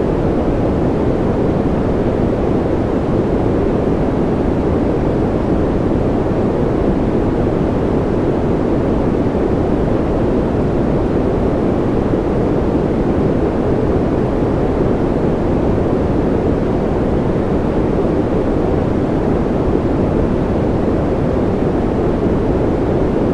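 Steady sleep-aid white noise: an even, unbroken rushing sound, deep and muffled rather than bright or hissy, with no change at all.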